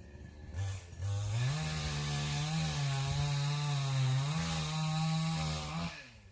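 A small engine revs up abruptly about a second in, holds high speed for about five seconds with its pitch dipping twice, then drops off abruptly.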